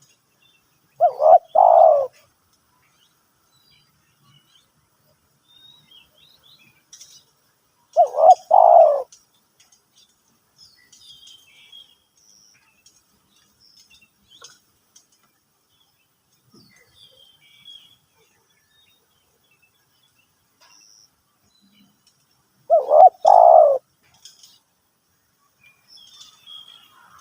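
Spotted dove cooing: three short phrases of a few coos each, about a second long, with long pauses between them. Faint chirps of small birds sound in the gaps.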